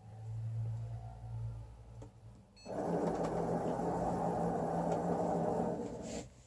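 Motors of an Excalibur Mirage chess computer's robotic mechanism moving the electromagnetic head across the board. A low hum, then about two and a half seconds in a louder rough motor whirr that runs for about three and a half seconds and stops suddenly near the end.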